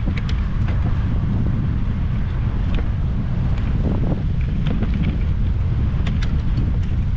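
Strong wind buffeting the camera microphone in a steady low rumble, with a few faint ticks scattered through it.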